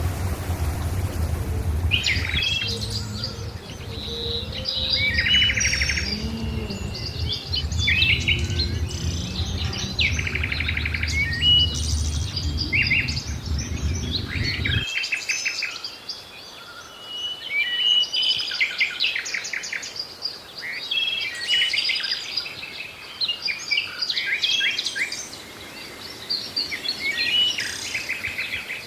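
A chorus of several songbirds chirping and trilling, with many short overlapping calls. A brief hiss comes before the birds start, and a low steady hum underneath cuts off abruptly about halfway through.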